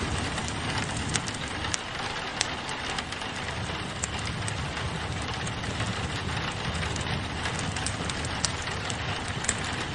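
Steady rain pattering on a window with a low rumble under it, mixed with a wood fire crackling in a fireplace: scattered sharp pops and snaps, a few louder ones.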